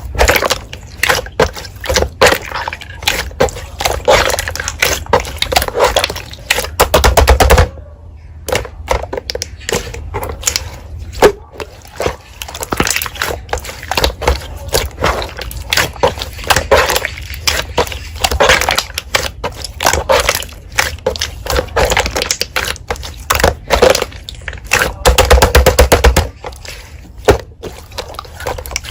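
Slime being squished and pressed by hand: a fast, irregular run of sticky clicks and pops, denser and louder in a couple of stretches.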